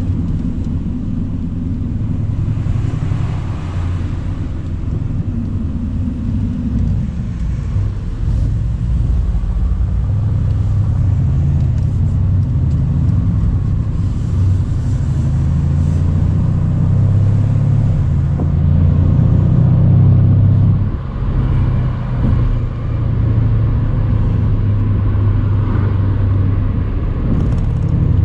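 Mercedes-AMG C63's twin-turbo V8 running as the car drives along. It is a steady low drone that grows louder and deeper through the middle, then drops briefly about 21 seconds in before picking up again.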